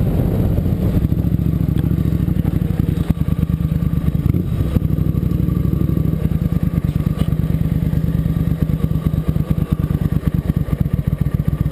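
Motorcycle engine running during a ride, a steady rapid exhaust pulse with a strong low note. The engine note dips and shifts briefly about three to five seconds in.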